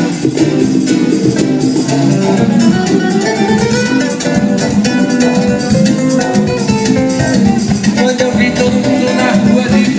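Live band playing an instrumental passage with prominent strummed guitar and no singing.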